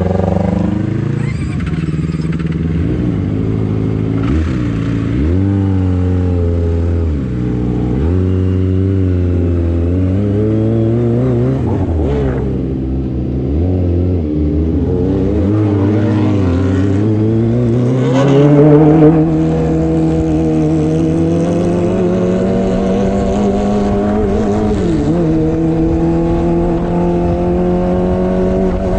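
Kawasaki ZX-25R 250 cc inline-four with an aftermarket racing exhaust accelerating hard through the gears. The revs climb and drop at each shift several times in the first half. In the second half it makes one long steady climb and then holds at high revs.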